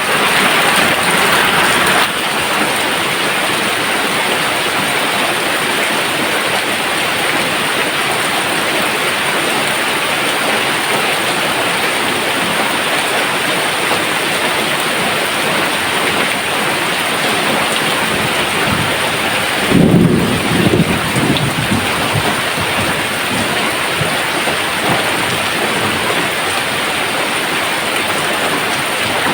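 Steady heavy rain hissing down, with a low roll of thunder about two-thirds of the way through that rumbles on for a few seconds before fading.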